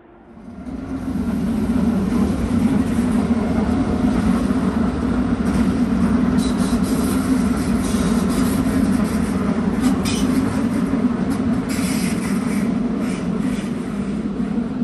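Red S-Bahn electric multiple unit running past on the station approach tracks: steady rail running noise with a low hum. It swells up over the first second or two and eases slightly near the end.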